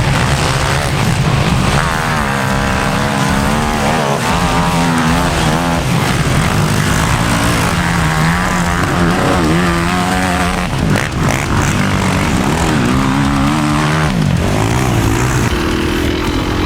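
Off-road vehicle engine revving hard, its pitch rising and falling over and over. There is a brief break with a few sharp knocks about two-thirds through, and it holds a steadier, higher pitch near the end.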